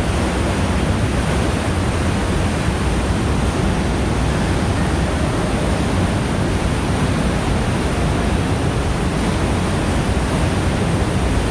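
Waterfall crashing into its canyon: a loud, steady rush of falling water, heaviest in the low rumble.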